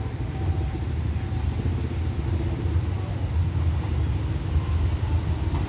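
Low, steady rumble of the diesel locomotive hauling rapid train 167 as it approaches slowly along the track, over a constant high buzz of crickets.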